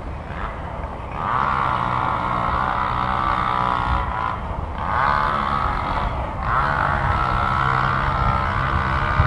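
A steady mechanical drone like a motor running, swelling louder three times with short dips between.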